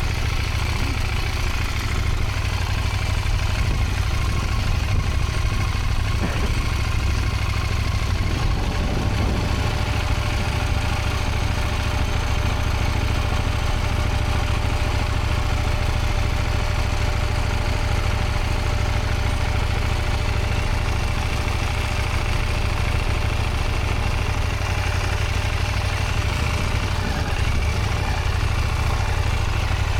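Motorcycle engine running steadily at low revs, with no sharp revving.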